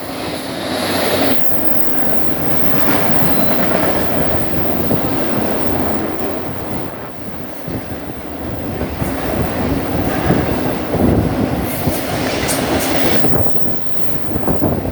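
A train passing close by: loud, continuous noise of wheels on rail and rolling railcars, with rattling clicks running through it.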